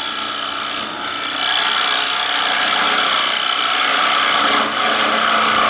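Carbide 90-degree detailer cutting inside a bowl spinning on a wood lathe: a steady scraping hiss of wood being hollowed out.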